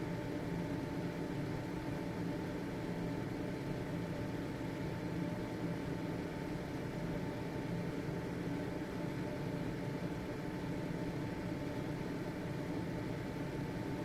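Home ventilation fan (exhaust fan) running steadily: an even motor hum and rush of air with a faint high steady tone over it.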